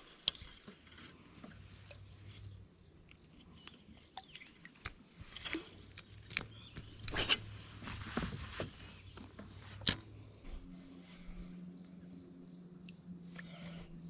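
Steady high-pitched insect chirring outdoors, broken by scattered short clicks and knocks, with a sharp click near the start and another about ten seconds in.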